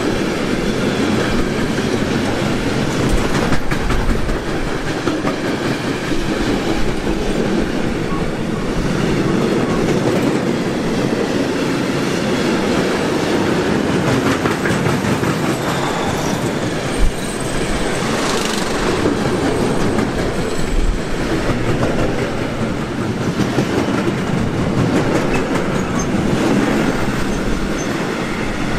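A train passing close by for a long stretch, its wheels clattering steadily over the rails, with one sharp knock a little past halfway.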